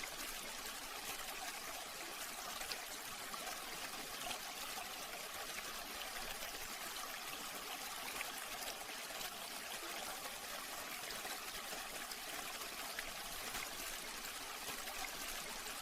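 Water trickling steadily from a small pump-fed tabletop fountain.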